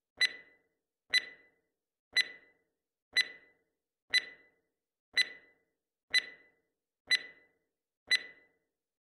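Electronic countdown beeps, one short high beep each second, nine in a row, each fading quickly. They count down the last seconds of the workout interval.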